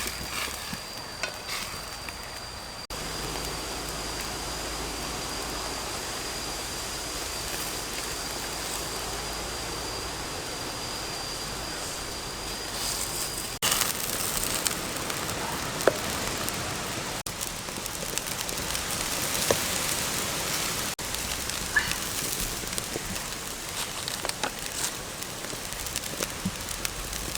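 Food cooking over a wood fire: a steady sizzling hiss with scattered small crackles and pops, changing abruptly a few times.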